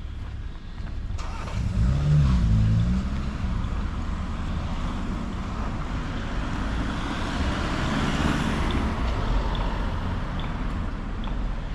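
Road traffic: a car passes close about two seconds in, its engine note bending in pitch as it goes by, then the tyre noise of another vehicle swells and fades around eight seconds, over a steady low rumble.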